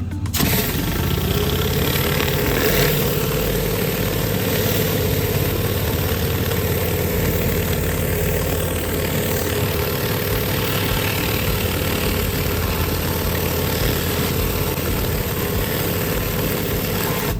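Pressure washer starting up and running, its motor tone rising quickly about half a second in and then holding steady, with a loud hiss of the water spray on concrete.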